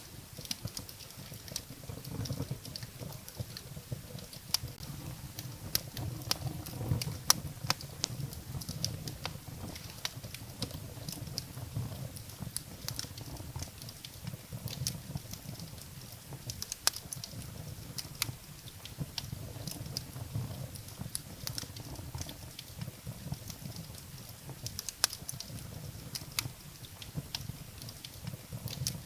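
Wood fire burning in a fireplace: frequent sharp, irregular crackles and pops from the burning firewood over a low, steady rumble of the flames.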